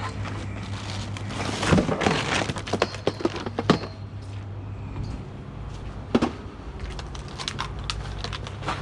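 A discarded item being forced open by hand: a run of sharp cracks, knocks and rattles of plastic and metal, loudest a couple of seconds in, then a single knock and lighter clicks near the end. A steady low hum runs underneath.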